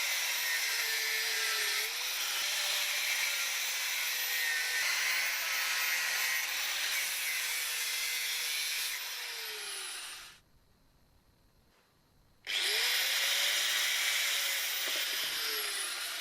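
Angle grinder cutting through the steel neck of a scissor-style car jack: a steady hissing cut with a motor whine that wavers and sags under load. A little past halfway it stops for about two seconds, then spins up and cuts again, sagging once more near the end.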